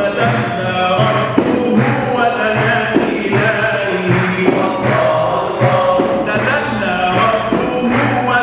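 Men's group singing Islamic religious chant (inshad), praising the Prophet, with held, ornamented notes over a steady hand-percussion beat.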